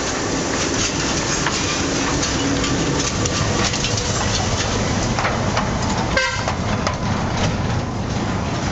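Narrow-gauge electric railway train running, a steady loud rumble and rattle with many sharp wheel and rail clicks. A brief, sharp, high-pitched sound cuts in about six seconds in.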